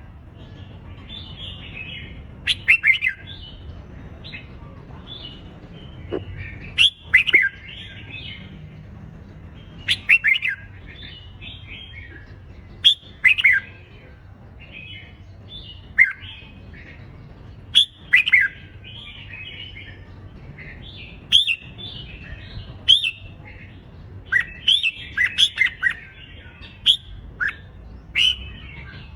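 Red-whiskered bulbuls singing competition song: short, loud, chirping phrases in bursts every two to three seconds, with softer chatter between them.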